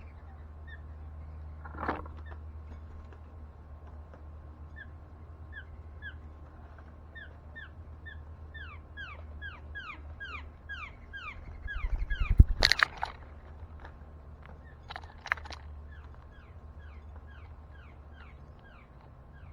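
A bird calling in a long run of short, downward-sliding chirps, a few a second at their fastest. A loud thump with rustling cuts in about two-thirds of the way through, and a few sharper knocks come near the start and later on, over a steady low hum.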